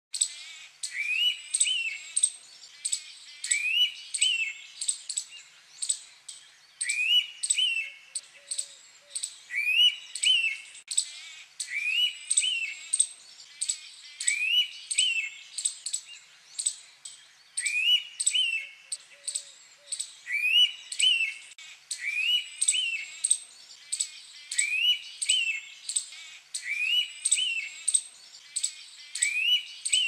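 Indian pitta calling its loud two-note whistle, "wheeet-tieu", over and over, about once every two to three seconds. Quick high ticks sound throughout in the background.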